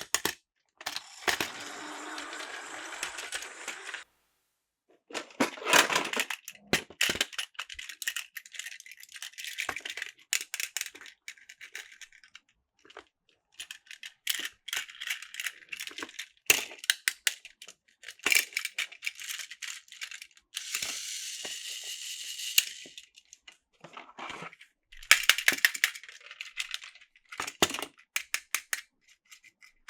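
Plastic Plarail toy train parts clicking and rattling in irregular bursts, with a few stretches of steady hiss lasting a second or two.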